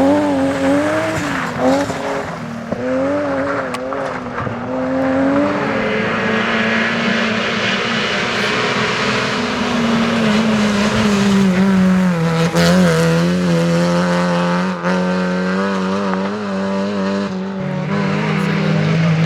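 Rally car engine revving hard, its pitch rising and falling through quick gear changes over the first few seconds, then holding a steadier, lower note that drops a step near the end.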